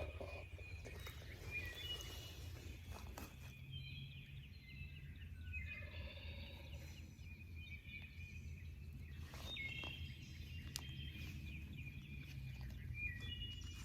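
Several wild turkey gobblers gobbling on the roost, faint and far off, a separate gobble every few seconds. A steady low rumble runs underneath.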